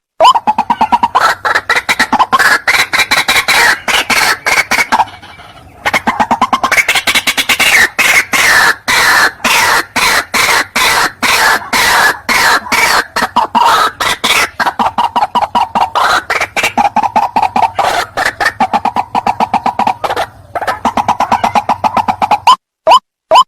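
White-breasted waterhen (ruak-ruak) calling in a dense, fast run of harsh repeated croaking notes, with short breaks about five seconds in and near twenty seconds. This is a lure call, used to bring waterhens of both sexes in quickly.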